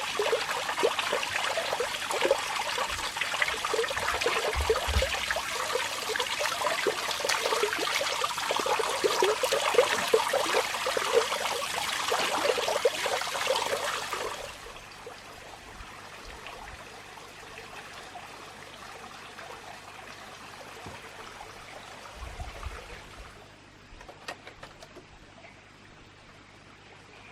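Water splashing and trickling for about fourteen seconds, then stopping suddenly, leaving a faint steady background.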